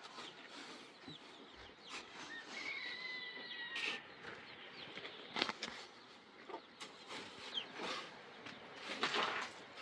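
Chickens clucking, with one longer pitched call about three seconds in and scattered short clicks and knocks.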